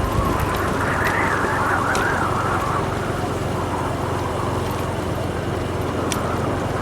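Motorbike engine running steadily while riding, with a wavering whistle of wind that rises and falls in pitch above it and a few sharp ticks.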